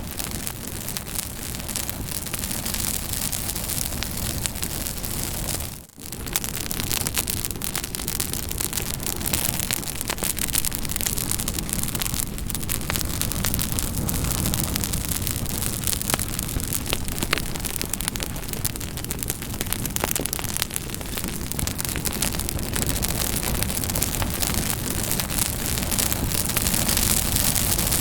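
Campfire burning: a steady hiss with dense, irregular crackles and pops of burning wood. The sound dips briefly about six seconds in.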